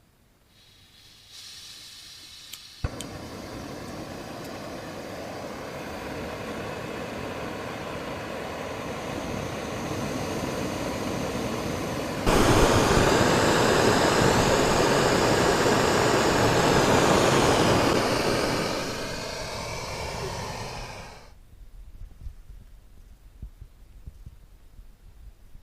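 Camp stove burner: gas hisses for a moment, a click lights it at about three seconds, and it then burns with a steady roar under a pot of water. The burner jumps louder about twelve seconds in, is turned down over a few seconds and cuts out about twenty-one seconds in.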